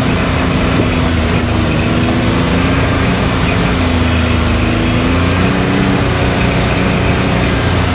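Can-Am Maverick X3's turbocharged three-cylinder engine running under shifting throttle as the side-by-side drives a trail, over a steady wash of drivetrain and terrain noise.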